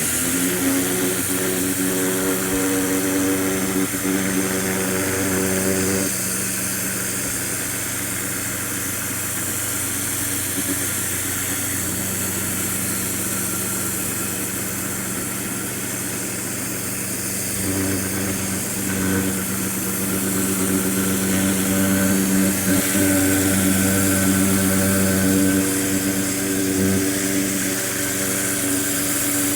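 Ryobi 1600 PSI electric pressure washer running and spraying: a steady buzzing hum from the motor and pump over a constant hiss of spray. The hum shifts a little about six seconds in and again near eighteen seconds.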